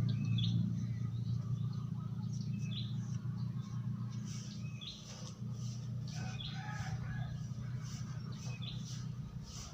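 Small birds chirping, short high calls spaced a second or two apart, over a steady low hum.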